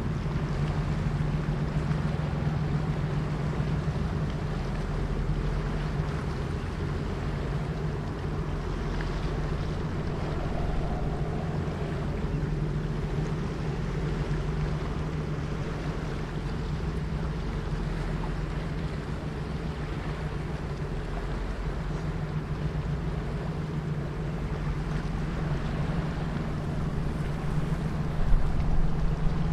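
Engine of a river sand barge running steadily with a low, even drone, over wind and water noise.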